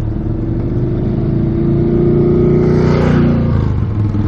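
Honda Gold Wing F6B's flat-six engine running at cruising speed under way, with road and wind noise. The engine note holds steady, then falls a little a bit after three seconds in, around a brief rushing swell.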